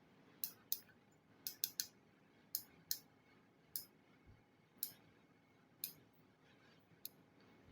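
About a dozen short, sharp clicks and taps at irregular intervals, from small hard parts being handled.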